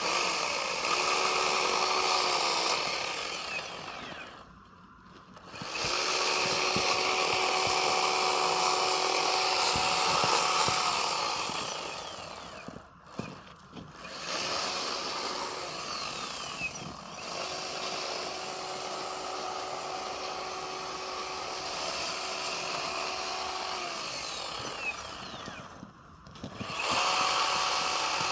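Chainsaw running at high throttle and cutting into a block of packed snow, in long bursts. The engine drops back briefly about four seconds in, near the middle and near the end before revving up again.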